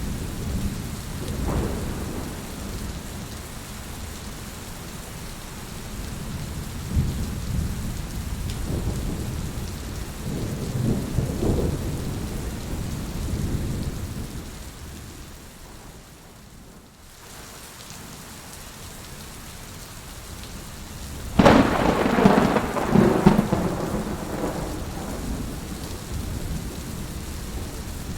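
Heavy rain falling steadily, with low rolling rumbles of thunder. About three quarters of the way through, a sudden loud thunderclap breaks and rumbles on for a few seconds.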